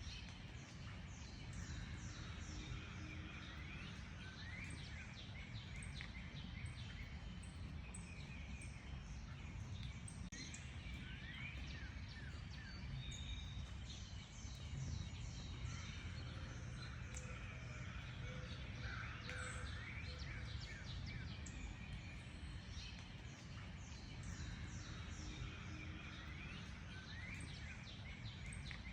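A chorus of many small songbirds chirping and singing at once: dense short high notes and quick rising and falling whistles, overlapping throughout. Beneath them runs a steady low rumble of background noise.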